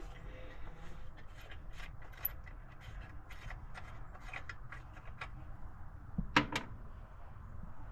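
Scattered small metallic clicks and taps from hand work on the engine's carburetor linkage, with a louder double knock about six seconds in.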